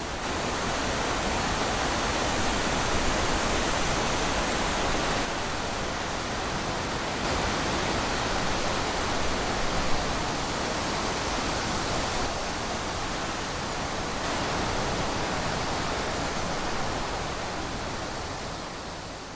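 Wind blowing in a steady rush that swells and eases slowly, fading out near the end.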